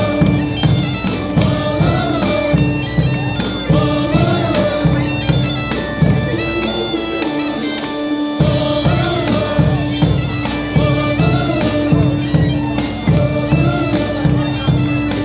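Bagpipes playing a folk melody over a steady drone, with a drum beating a steady rhythm beneath; the drum stops for a moment about eight seconds in.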